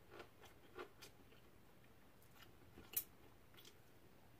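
Quiet chewing of food with faint soft mouth clicks, and one sharp click about three seconds in.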